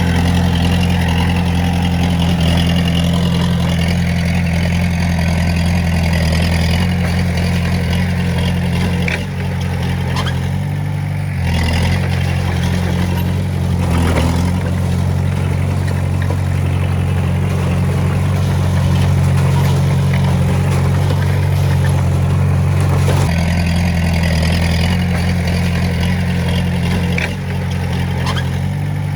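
Diesel engine of heavy earthmoving equipment running steadily under working load, its note shifting about ten seconds in and again around twenty-three seconds in.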